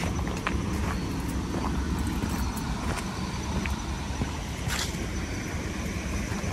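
Footsteps on a rocky trail, a few scattered knocks and scuffs over a steady low rumble.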